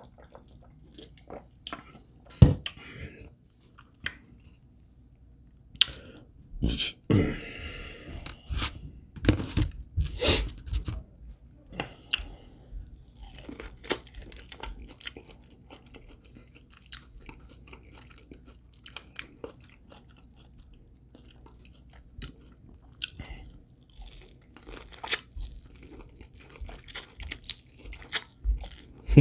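A person chewing and biting into fried chicken wings: irregular crunches and wet chewing, some crunches sharper and louder than others.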